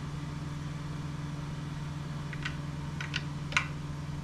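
A few sharp metal clicks from a wrench tightening the water pump housing bolts on an outboard lower unit, the loudest about three and a half seconds in, over a steady low hum.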